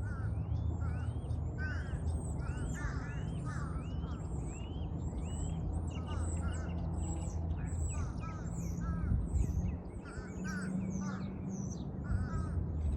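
Several birds chirping and calling at once, short calls following each other without a break, over a steady low hum.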